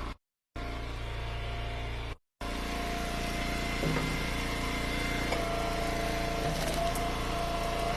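Eastonmade Ultra wood splitter's engine running steadily, a constant mechanical hum. The audio cuts out completely twice for a moment in the first few seconds.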